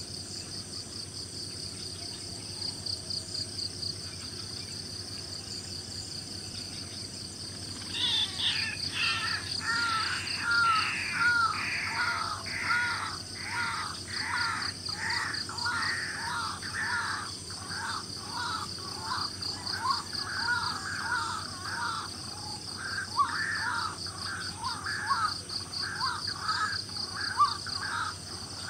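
Insects trill steadily and high throughout. About a third of the way in, a bird starts calling in a long run of short, harsh notes, roughly two a second, louder than the insects.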